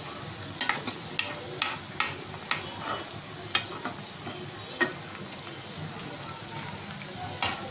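Sliced onions sizzling in hot oil in a frying pan, softened, while a spatula stirs them, clicking and scraping against the pan at irregular intervals.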